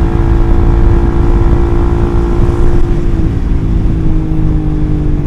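Suzuki GSX-R150's single-cylinder engine with an R9 Mugello aftermarket exhaust, running steadily under way with a deep exhaust note. Its pitch drops a little about three seconds in, then sags gently.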